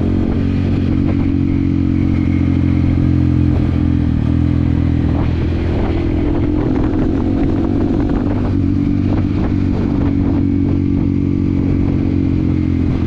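Yamaha WR155R's single-cylinder engine running at steady revs while riding, with a few short knocks and rattles in the middle.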